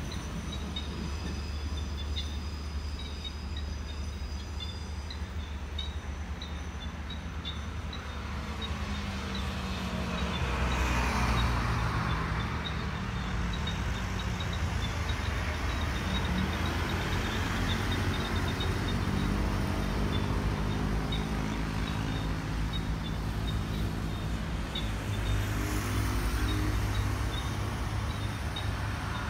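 Steady low rumble of a diesel-hauled passenger train moving away down the line. Road vehicles pass and swell louder about ten seconds in and again near the end.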